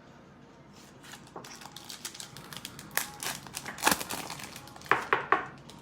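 Football trading cards and their foil pack wrapper being handled, giving irregular crinkling, rustling and sharp snaps that start about a second in and are loudest near the end.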